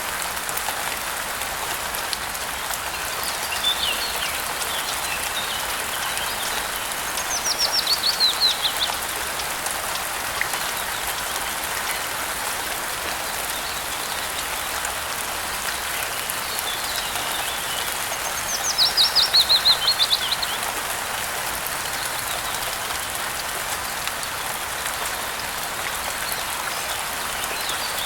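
Steady rain falling, with a songbird singing over it. Twice, about seven seconds in and again about eighteen seconds in, the bird gives a quick trill of rapid notes falling in pitch, each preceded by fainter calls.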